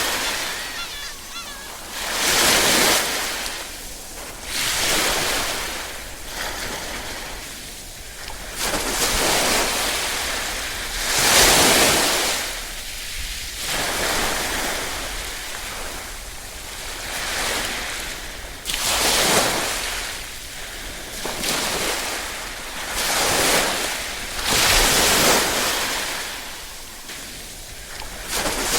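Small waves lapping on a shore, each one rising and washing back about every two seconds in a steady rhythm.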